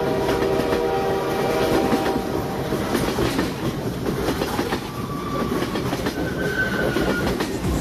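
Train running on rails: a horn chord sounds and fades out about two seconds in, then the steady rumble and clatter of the wheels carries on, with a couple of brief higher tones later.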